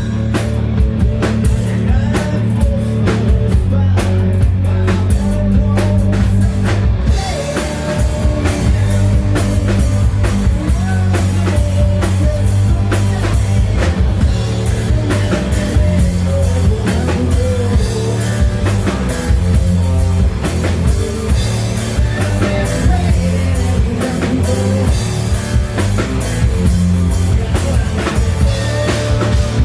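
A hard rock band playing live, with drum kit, guitars and singing; about seven seconds in, the cymbals and the fuller band come in and the sound gets denser.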